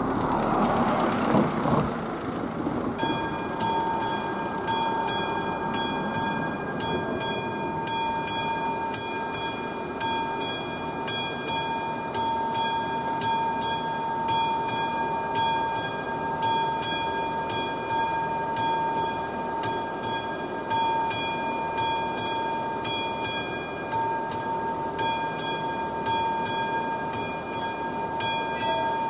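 Railway level-crossing warning bell of an AŽD 71 crossing, switching on about three seconds in and ringing steadily in rapid, even strokes over a held tone. A brief rush of noise comes before it.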